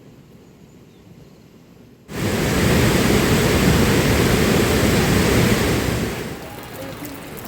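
A loud, steady rush of falling water starts suddenly about two seconds in and eases off near the end.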